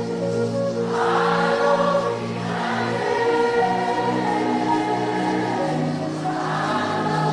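Group of voices singing a slow worship chorus over sustained keyboard chords, the voices swelling in and out in long phrases.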